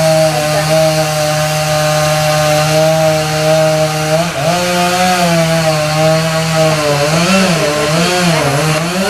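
Chainsaw running at high revs as it cuts through the tree, its pitch steady at first, jumping up about four seconds in and then wavering up and down near the end as the load on the saw changes.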